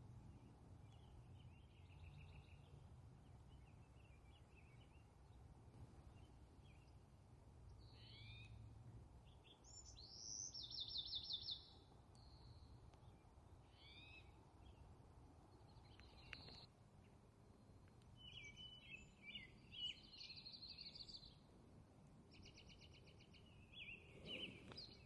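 Songbirds singing outdoors: scattered chirps and several rapid trilled phrases, the loudest about ten seconds in, over a faint low steady rumble.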